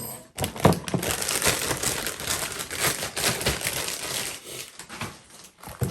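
Plastic wrapping crinkling and rustling as it is handled, with many small clicks. It is busiest in the first few seconds and thins out toward the end.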